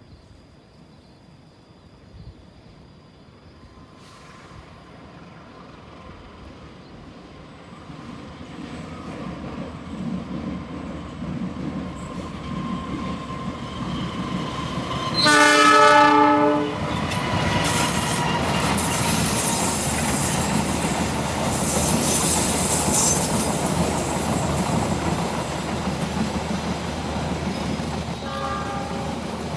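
An Indonesian KAI passenger train approaches, growing steadily louder. Midway its locomotive horn sounds one loud blast of about a second and a half, then the train passes with steady wheel-on-rail noise, and a short, fainter horn note comes near the end.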